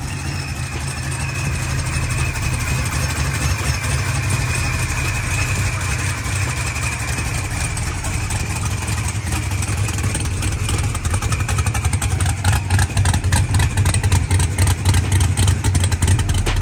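Supercharged V8 of a fourth-generation Camaro drag car idling with a choppy lope, and a thin high whine above it. The idle turns rougher and more uneven in the last few seconds.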